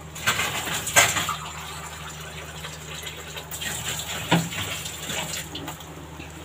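Keema masala bubbling and sizzling in a steel kadhai, stirred with a wooden spatula that knocks against the pan twice.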